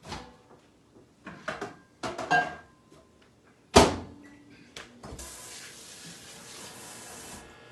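Plastic egg poacher set into a microwave oven with light knocks, then the microwave door shut with a loud clunk a little under four seconds in, followed by a steady hiss lasting about two seconds.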